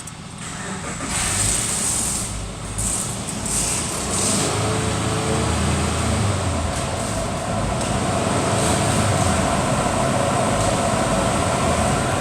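Jeep Liberty engine running steadily, growing louder over the first second or two and then holding even.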